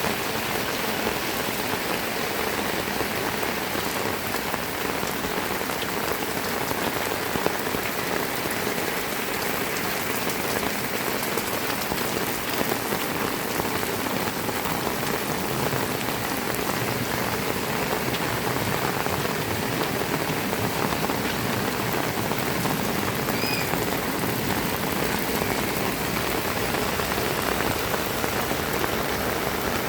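Heavy rain falling steadily, a dense, even hiss of drops striking the ground.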